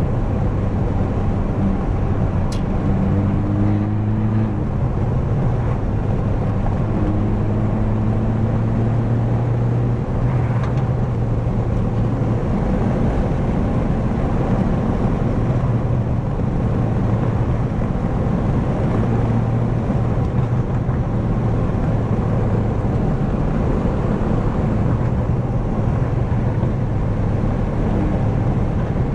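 Straight-piped 2016 BMW 328i's turbocharged four-cylinder heard from inside the cabin, droning steadily at cruise with small shifts in pitch.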